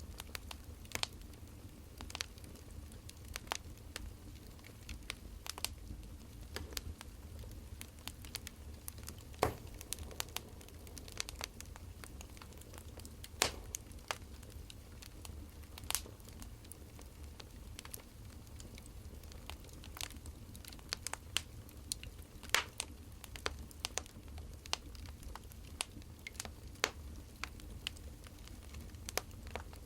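Wood fire crackling: irregular sharp pops and snaps, scattered unevenly, over a steady low background.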